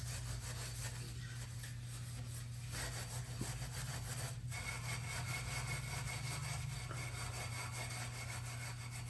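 Hand scraper scraping dried paint off a metal part of an airless paint sprayer in rapid repeated strokes, over a steady low hum.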